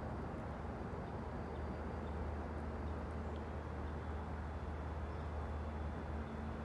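Steady low rumble of an approaching train, heard between blasts of its horn.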